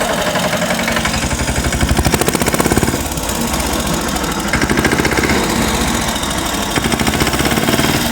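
Tractor engine sound running with a rapid, steady putter as the tractor drives off.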